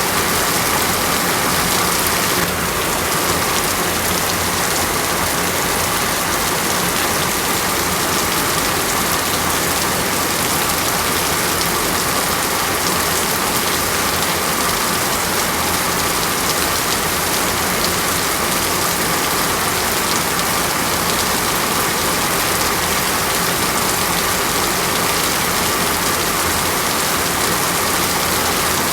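Rain falling steadily, a continuous even hiss of water on surfaces.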